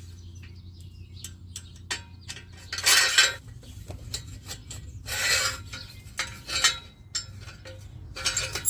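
Metal tools and exhaust-hanger hardware being handled: a string of clicks and clinks with short bursts of scraping or rattling, the biggest about three, five and eight seconds in, over a steady low hum.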